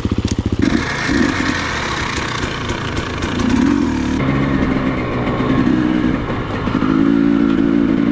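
Enduro motorcycle engine pulling away from idle about a second in, then running under throttle as the bike is ridden, its revs rising and falling.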